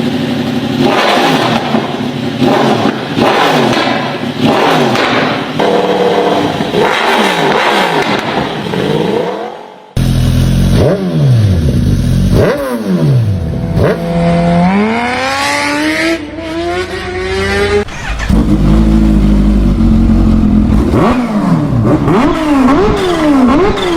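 Litre-class inline-four superbike engines revved hard, in three clips cut together: repeated throttle blips that rise and fall in pitch, a long rising rev in the middle clip, then more quick blips near the end.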